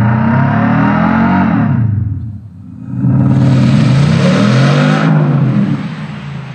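Maxhaust active sound system on a Hyundai Ioniq 5 N electric car, playing a simulated petrol-engine note through its speakers. It revs up and back down twice, with a short dip in between, and the second rev carries a harsher hiss on top.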